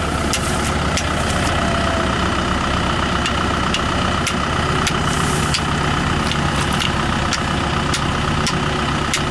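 Tractor diesel engine idling steadily, with sharp metallic knocks at irregular intervals, roughly one or two a second, as metal is struck while the damaged cardan shaft part is driven out.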